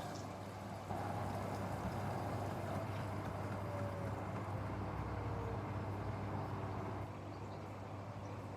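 Beko ECOWMB81445LW washing machine running a wash with a low steady hum. About a second in it gets louder and a faint motor whine glides slowly down in pitch as the drum turns. It drops back to the quieter hum near the end.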